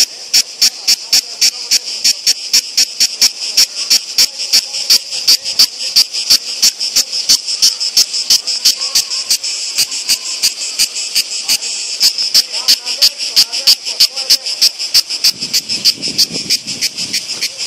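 European cicadas singing loud and close: a steady high-pitched rasp broken into even pulses, about four a second.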